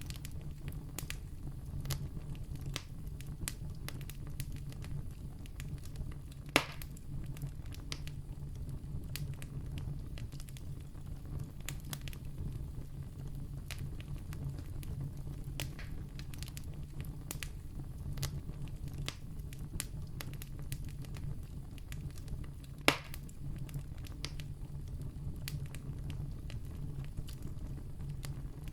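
Wood campfire crackling, with a steady low rumble of the flames under many small snaps. Two louder pops stand out, about a quarter of the way in and again about three-quarters in.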